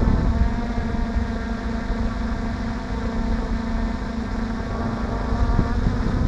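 DJI F450 Flamewheel quadcopter's four 2212 920 kV brushless motors and propellers buzzing in flight at a steady pitch. Wind rumbles on the microphone underneath.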